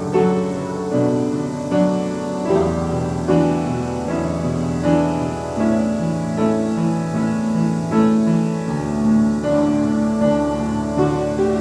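Piano playing slow, sustained chords over long-held bass notes, the chords changing about once a second.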